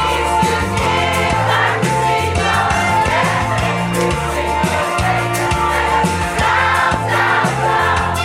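Choir singing a pop song over a backing track with a steady beat and bass line.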